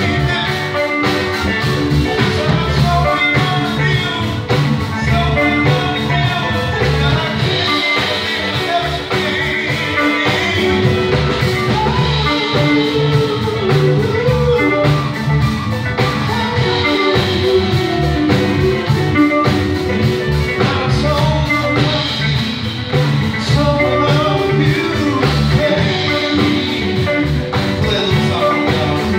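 Live band music with guitar and a steady beat.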